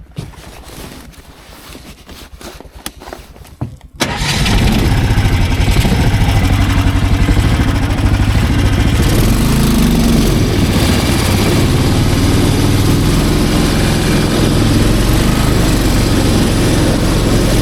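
Snowmobile engine: a quieter stretch with faint knocks, then about four seconds in the engine comes in suddenly and runs loud and steady under throttle.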